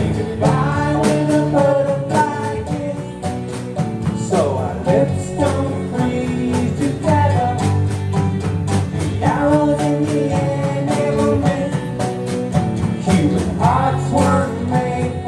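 Live band music: guitar over a steady drum beat, with a gliding melody line coming in every couple of seconds.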